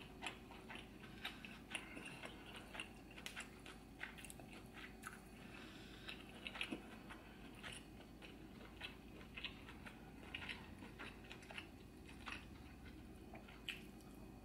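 Close-up wet chewing and mouth smacking while eating a seafood boil in garlic butter sauce: soft, irregular clicks, a few a second.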